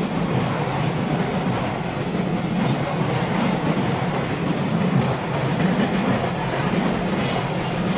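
A train running past on the rails, a steady loud rumble of wheels and running gear. A brief high-pitched squeal comes near the end.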